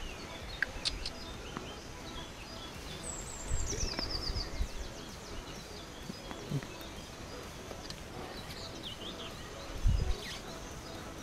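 Small birds singing and chirping in the background, with one falling trill about three seconds in and scattered chirps later. Two short low thumps, about three and a half and ten seconds in, stand out over them.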